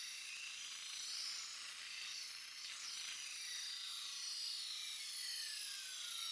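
Knife blade held against a spinning grinding wheel: a steady high-pitched grinding hiss, with whining tones that slowly slide up and down in pitch.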